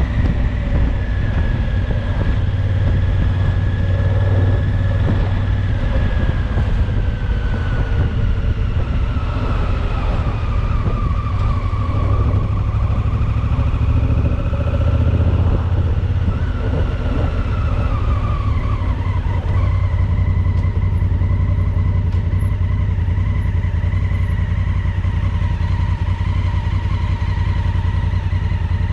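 Honda Africa Twin's parallel-twin engine running at road speed with a steady low rumble of wind and road noise. Its pitch eases down twice as the bike slows in traffic, between rises.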